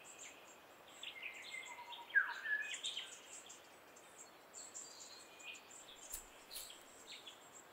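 Faint birdsong in bushland: scattered short chirps and whistles over a soft hiss, with the clearest call, a gliding whistle, about two seconds in.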